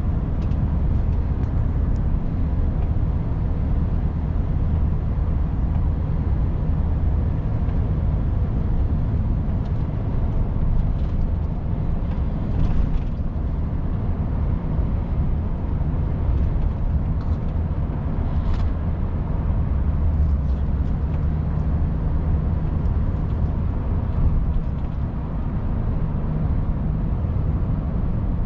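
Volvo FH 500 truck's 13-litre straight-six diesel running under way, heard from inside the cab as a steady low drone with road noise. A few faint clicks come and go.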